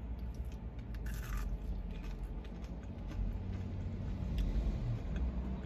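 Soft chewing of a chicken nugget, with a few faint clicks and a brief rustle about a second in, over a steady low rumble in the car cabin.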